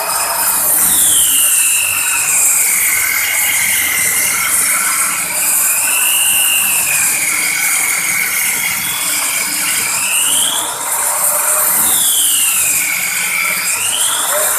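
Wood-cutting machine running through wood: a high whine that sags in pitch and recovers several times as the cut loads it, over a steady hiss.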